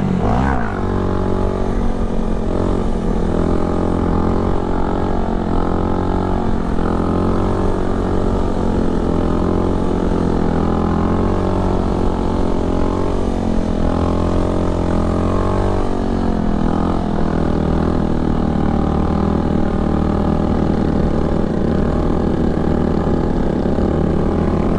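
Honda Grom's 125cc single-cylinder four-stroke engine running under way at a steady cruising speed: a continuous drone whose pitch rises and dips a little as the throttle shifts.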